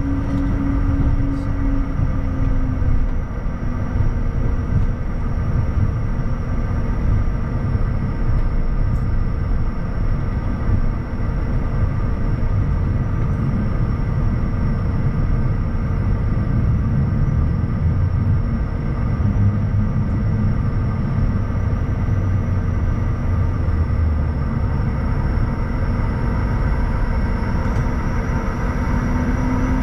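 Bombardier Challenger 350 business jet with its Honeywell HTF7350 turbofans running: a loud, steady rumble with several steady whining tones over it. One of the lower tones sags slightly about two seconds in and climbs again near the end.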